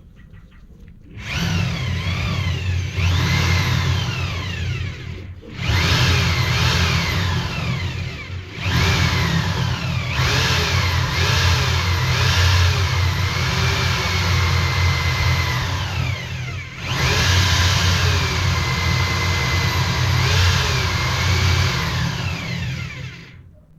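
Motor-driven sandpaper head spinning inside a sewer pipe, roughing up the pipe wall to prepare it for relining. The motor whine rises and falls with speed and cuts out briefly three times.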